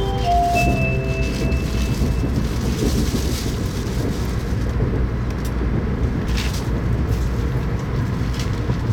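Shinkansen bullet train running, heard inside the passenger car: a steady low rumble of wheels and running gear with a few sharp clicks. A chime melody dies away in the first second or so.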